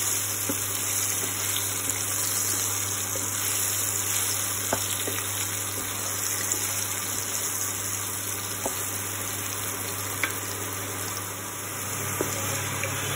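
Cubed potatoes sizzling as they fry in oil in a kadai, with a steady hiss and a few sharp taps of a wooden spatula against the pan as they are stirred.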